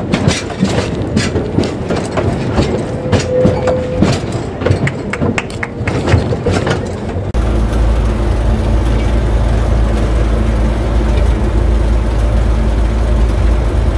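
Wheels of a 2 ft narrow-gauge train clicking and clattering irregularly over rail joints and pointwork. About seven seconds in it cuts to the steady low drone of the diesel locomotive's engine, heard from inside the cab.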